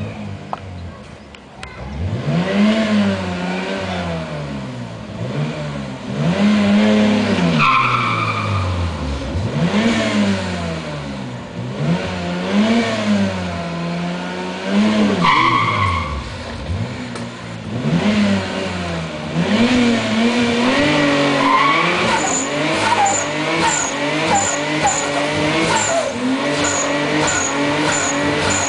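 Twin-turbo Toyota Supra engine, HKS-tuned to about 625 hp, revved again and again, its pitch rising and falling every few seconds. It then holds at a steadier, higher pitch near the end.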